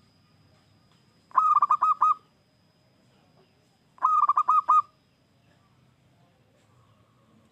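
Zebra dove (perkutut) cooing its song twice, each phrase a quick run of about five soft notes lasting under a second, with a few seconds between.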